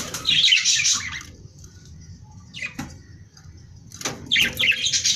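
Small parrots (budgerigars and lovebirds) chattering and squawking in two bursts of quick, high chirps: one in the first second, and another about four seconds in.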